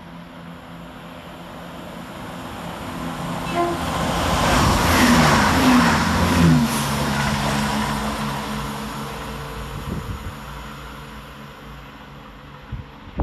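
Chiltern Railways Class 168 diesel multiple unit passing through at speed. The engine and wheel noise builds, peaks as the train goes by about five seconds in, the engine note drops in pitch as it passes, then the sound fades as it runs away.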